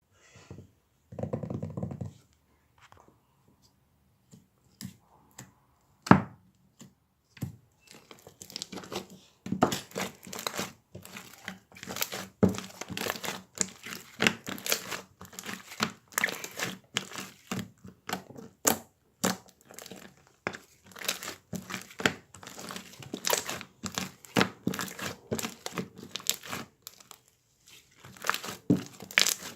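Slime being squished and worked by hand, making irregular crackling clicks and squelches; sparse at first, then nearly continuous from about eight seconds in, with a short pause near the end.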